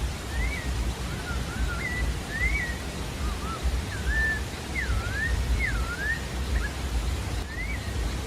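Pale-breasted thrush (sabiá-da-várzea) singing: a string of short whistled phrases that slur up and down, then one more phrase near the end, over a steady low rushing noise.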